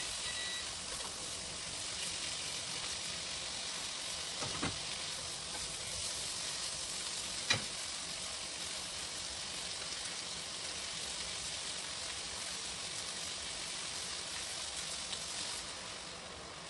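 Tomato slices sizzling as they fry in a non-stick pan, with two sharp knocks, about four and a half and seven and a half seconds in. The sizzle dies down near the end as water is poured into the pan to make a sauce.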